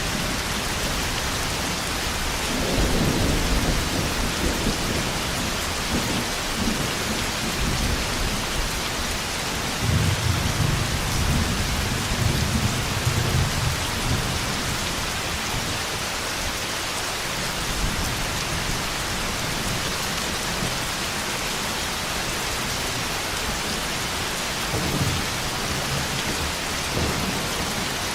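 Steady heavy rain with rolls of thunder: a long low rumble about three seconds in, a stronger one from about ten to fourteen seconds, and two short rumbles near the end.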